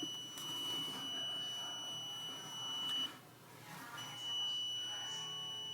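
Moisture meter sounding a steady high-pitched beep tone while its probe reads a wet wood floor at 76%, the tone stopping about three seconds in and starting again a second later.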